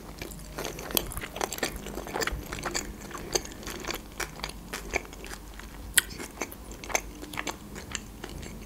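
Close-up chewing of a sushi roll with a fried crust: irregular crunches and wet mouth clicks, with a sharper crunch about six seconds in.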